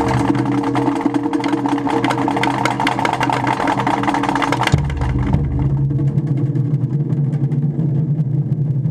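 Japanese taiko drums played in a fast, continuous rhythm of strikes, over a steady low hum.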